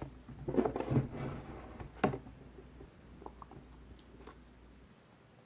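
A few short, quiet wet rubbing and squishing sounds as a small doll is washed by hand with dish soap.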